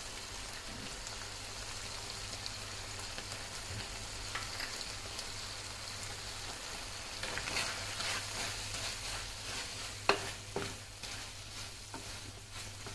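Chicken strips in a thick sauce sizzling in a pan over a medium-low gas flame. In the second half a wooden spatula stirs and scrapes through the dish, with a couple of sharp knocks against the pan about ten seconds in. The sizzle fades out near the end.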